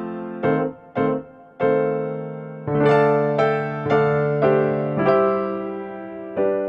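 Background music played on an electric piano: single notes and chords struck one after another, each fading slowly, with a few short notes early and longer held chords later on.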